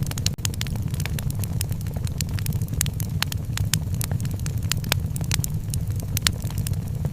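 Wood fire burning in a fireplace: a steady low rumble of the flames with sharp, irregular crackles and pops, several a second.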